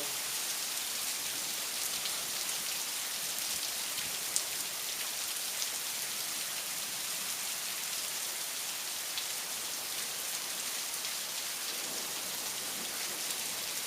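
Heavy rain pouring down steadily, a dense hiss of rain on surfaces with scattered drop ticks.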